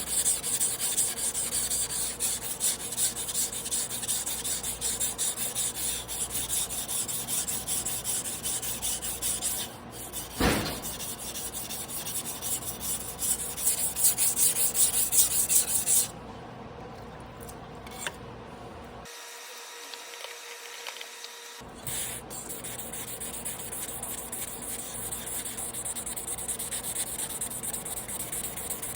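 A carbon-steel Damascus sashimi knife blade being rubbed back and forth on a whetstone in fast, gritty strokes. There is one short knock about ten seconds in. The strokes stop about two-thirds of the way in and start again a few seconds later.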